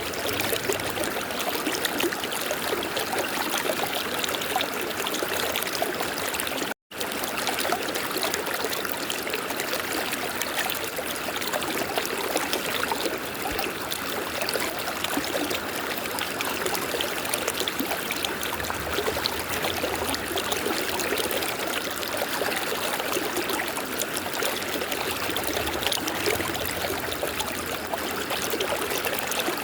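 River water flowing steadily, an even rushing noise; the sound cuts out for an instant about seven seconds in.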